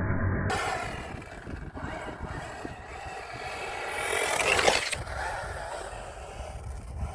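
Losi Baja Rey RC trophy truck driving on rough ground: electric motor whine and tyre scrape. The whine rises in pitch to its loudest at about four and a half seconds as the truck comes close, then drops away.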